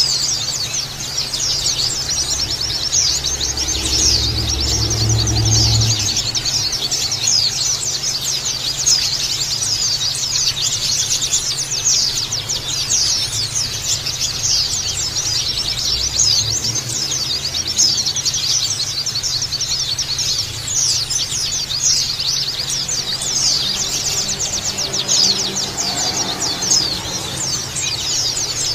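A flock of white-eyes (pleci) chattering together: a dense, continuous stream of rapid high chirps and twitters from many birds at once, the busy 'ngeriwik' chatter used to set caged pleci singing.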